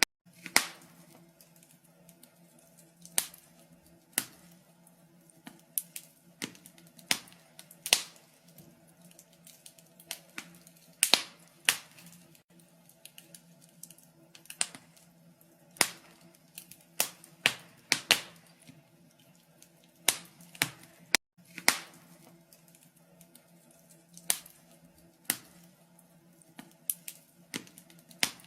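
Wood fire in a fireplace crackling: sharp, irregular pops about one or two a second, some louder than others, over a faint steady low hum.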